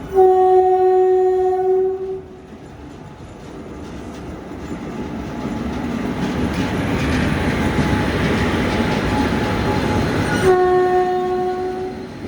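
Train horn sounding two long blasts, one at the start and one near the end, each a single steady note. Between them the rumble and clatter of a train grows louder.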